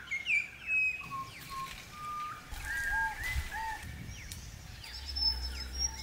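Several birds calling and singing: short whistled chirps, falling and rising notes and repeated arched notes from different birds, with a low rumble underneath in the second half.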